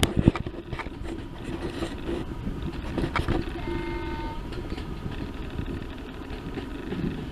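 Heritage railway train running with a steady low rumble, a few sharp clicks near the start and a short toot a little past halfway.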